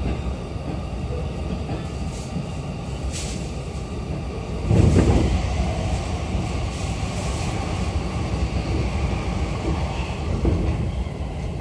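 Running noise heard inside a JR East E233 series electric train car: a steady rumble of wheels on rail, with faint clicks from the track. About five seconds in, a louder rumble swells for about a second.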